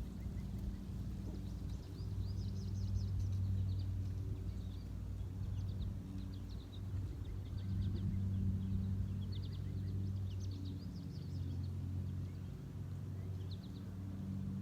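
Small birds chirping in quick runs of high notes, in several bursts, over a steady low hum.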